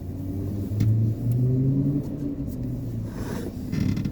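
Nissan Rogue's engine running with a low, wavering hum, with a few faint clicks over it.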